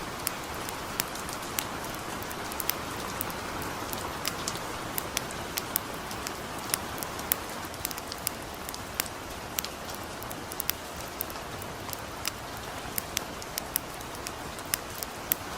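Light rain falling in a steady, even hiss, with sharp crackles and pops of a campfire scattered irregularly through it, one to three a second.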